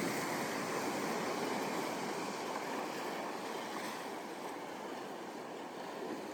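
Ocean surf breaking and washing up the shore as a steady rush, loudest at the start and slowly easing off.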